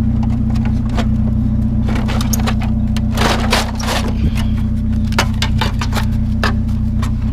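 A vehicle engine idling steadily under a string of sharp metallic clinks and clatters as scrap metal pieces are handled and knocked together, busiest about two to four seconds in.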